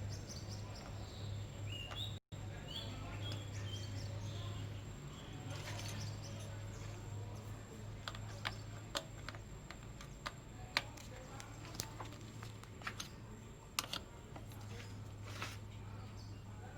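Scattered sharp metallic clicks and taps from hand-tool work on a truck's battery clamps and terminal bolts, irregular from about five seconds in, over a steady low hum. A few high bird chirps come in the first few seconds.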